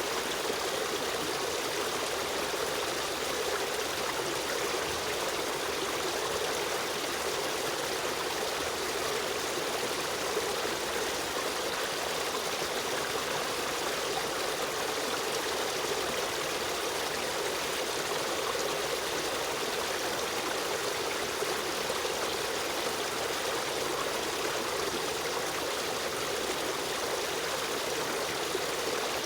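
River stream running steadily, an even rushing and trickling of flowing water with no change.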